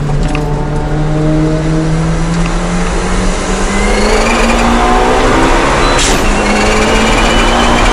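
Daihatsu Copen's engine, heard from inside the cabin, revving up under hard acceleration. About six seconds in comes a clutchless upshift through its dog-gear gearbox: a brief sharp noise, a drop in revs, then the engine climbs again.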